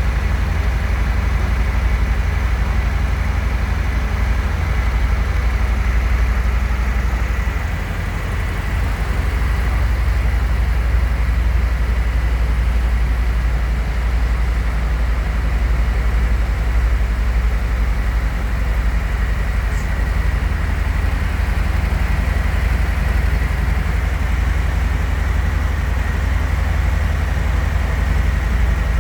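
Harley-Davidson Fat Bob's V-twin engine idling steadily with a deep low rumble, its level dipping briefly about eight seconds in.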